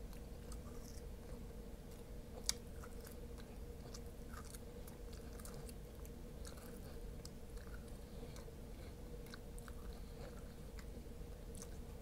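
Close-up chewing and wet mouth clicks of a man gnawing meat off a fried rib bone, with one sharper click about two and a half seconds in.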